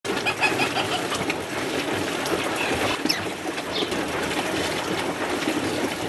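Birds calling in a garden: short high chirps and one falling whistle about three seconds in, over a steady low rushing noise.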